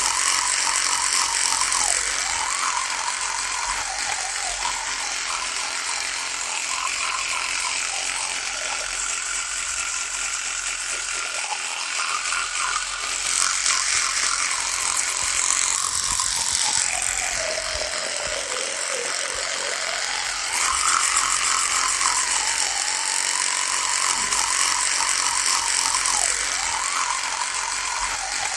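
Electric toothbrush buzzing steadily. Its pitch sags briefly every few seconds and drops much lower for a few seconds around the middle before rising back.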